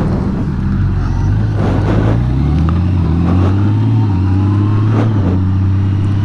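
2018 Honda Gold Wing's flat-six engine pulling under way, its pitch rising steadily for a couple of seconds, then stepping with a gear change from the dual-clutch transmission about four seconds in and running on steady.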